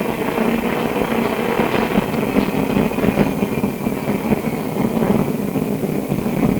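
Inside Melbourne SW5 class tram 815: a steady, loud rumble of the tram's running gear with a low hum and small ticks and rattles.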